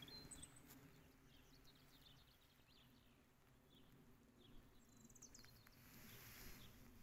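Near silence outdoors: faint bird chirps now and then, with a short run of quick chirps about five seconds in, over a low wind rumble.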